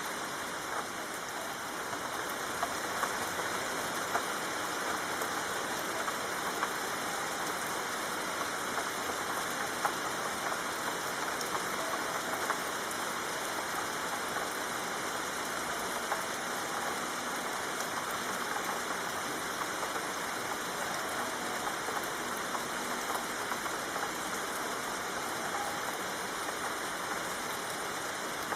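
Soft rain falling steadily: an even hiss with scattered light ticks of drops.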